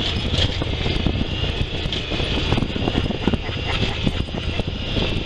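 Honda Pioneer 1000 side-by-side running steadily over a rocky trail, its engine rumble mixed with frequent knocks and rattles from the rough ground.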